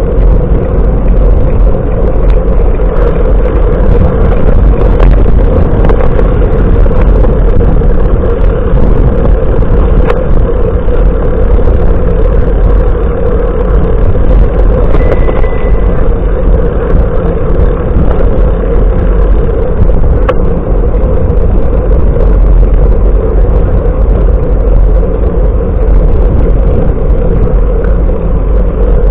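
Steady, loud wind rush buffeting the microphone of a camera on a moving bicycle.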